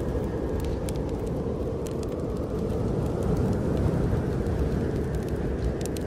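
Steady low rush of snowstorm wind, with the small scattered crackles and pops of a burning wood fire.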